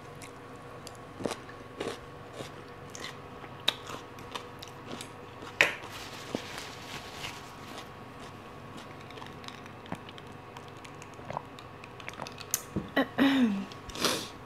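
Close-up chewing and biting of a mouthful of spicy papaya salad, with scattered crisp crunches. A faint steady hum runs underneath, and there is a run of louder crunches near the end.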